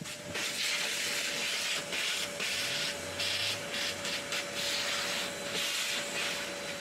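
Repeated hissing bursts of spray from a nozzle, each lasting a second or two, over a faint steady whine; this is the cleaning stage of the bus restoration.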